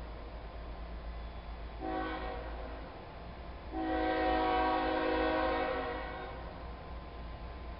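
Diesel locomotive air horn sounding a chord: a short blast about two seconds in, then a long blast of about three seconds, the closing short-long of a grade-crossing warning signal. A steady low rumble runs underneath.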